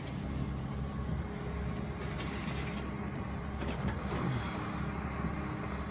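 Excavator's diesel engine running steadily during demolition, with a few faint knocks.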